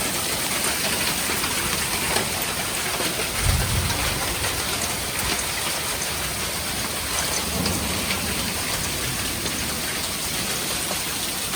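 Heavy rain falling steadily during a thunderstorm, with a low rumble of thunder about three and a half seconds in and a fainter one near eight seconds.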